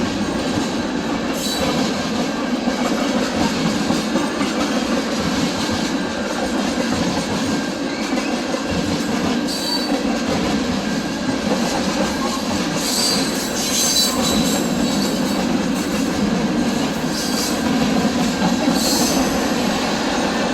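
Train rolling past on the rails with a steady rumble of wheels, and a few brief high wheel squeals in the second half.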